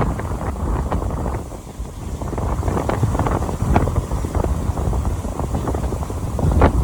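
Strong gusty Santa Ana wind buffeting the microphone: a low rumble with frequent short crackles, swelling louder near the end.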